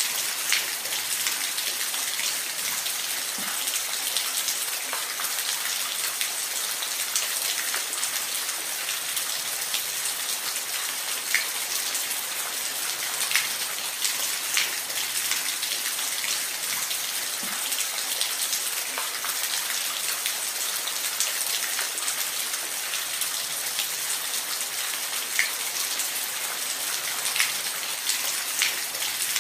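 Steady rain falling, a constant hiss with scattered individual drops ticking out against it.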